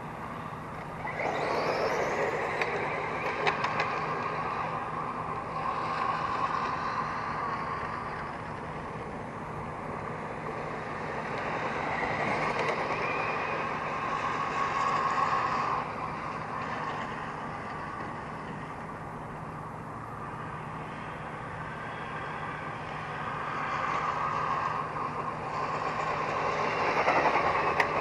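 Brushless electric motor and geared shaft drivetrain of a Tamiya TT-01 radio-controlled race truck running on a 2S battery. The whine rises as it accelerates, and the sound swells and fades several times as the truck drives around. A steady low hum sits underneath.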